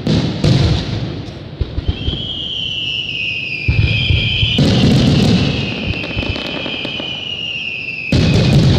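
Aerial firework shells bursting, booms and crackle in loud clusters near the start, around the middle and near the end. A long high whistle, sinking slightly in pitch, runs from about two seconds in until near the end.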